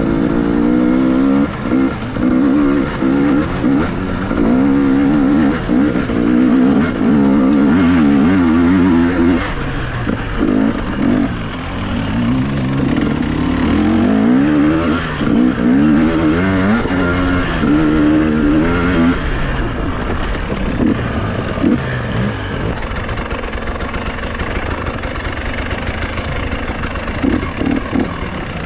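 KTM two-stroke enduro motorcycle engine under riding load, revving up and down again and again as the throttle is worked off-road. In the last third it runs lower and more evenly.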